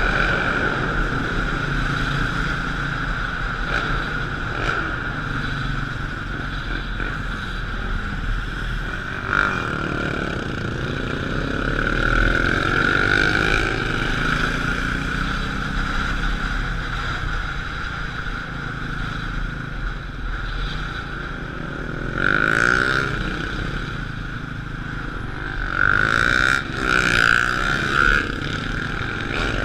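Motorcycle engine running, revving up and down several times, with a steady high-pitched drone throughout.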